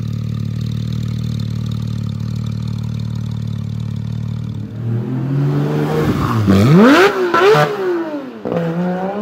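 Porsche 991 GT3 flat-six through an iPE Innotech titanium exhaust, idling steadily, then from about halfway through revved hard several times, the pitch shooting up and dropping back between blips.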